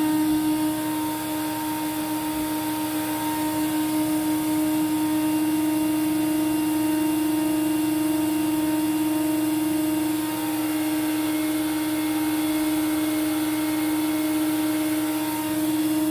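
Hoover Celebrity Quiet Series vacuum cleaner motor running steadily on low speed, a constant hum drawing air through the floor nozzle.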